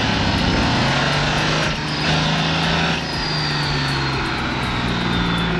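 Tractor-pulling engine running loud and hard at high revs, its pitch stepping up and down slightly.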